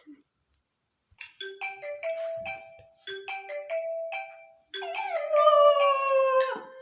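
A phone alarm starts a short chiming tune about a second and a half in and repeats it. About five seconds in, a pet dog joins with a long howl that slides down in pitch, her usual "singing" along to the alarm.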